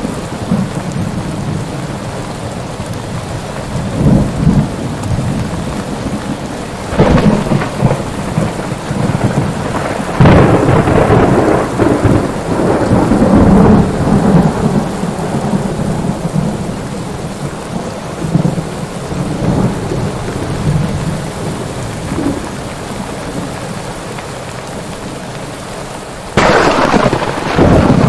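Thunderstorm: steady rain with rolling thunder. Peals swell about seven seconds in and again from about ten to fifteen seconds, and a sharper, louder clap breaks near the end.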